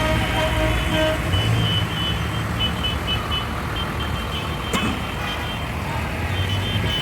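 Tractor engines running with a continuous low rumble, with a broken high-pitched beeping over it.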